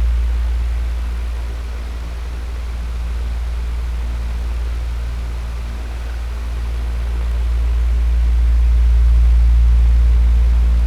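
Electric fan running steadily: a low motor hum under an even whoosh of moving air. It swells and fades slowly in loudness, dipping twice and building up again near the end.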